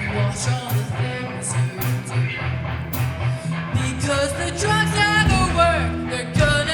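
Live rock band playing: strummed electric guitar over bass and drums, with a voice singing from about four seconds in.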